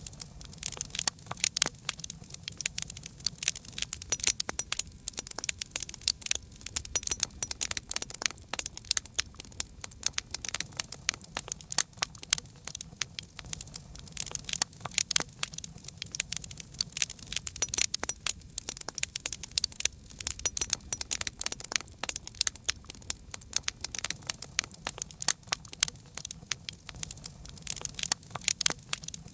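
Campfire burning with dense, irregular crackling and snapping pops, over a faint low rumble of the flames.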